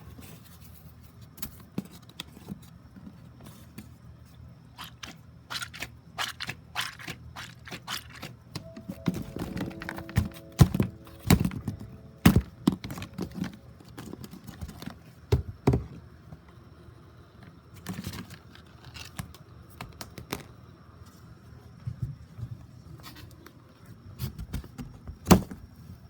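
Irregular knocks, taps and scraping, as of hard objects being handled and bumped, busiest in the middle with a few louder knocks and one sharp knock near the end.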